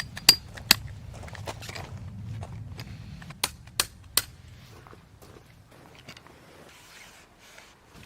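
Camping gear being handled: rustling and shuffling with sharp clicks or knocks. Two come near the start, and three come in quick succession about four seconds in.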